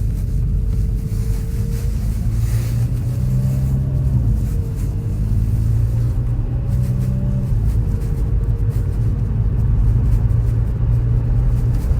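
VW Golf 5 GTI's 2.0 TFSI (BWA) turbo four-cylinder engine running steadily, with light knocking running through it, denser in the second half. The owner suspects the timing belt or the water pump as the source of the knocking.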